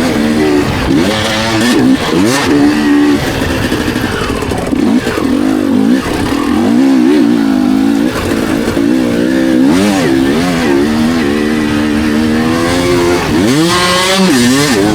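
Dirt bike engine under constant throttle changes: revving up and backing off over and over, its pitch rising and falling, with a hard rise in revs near the end.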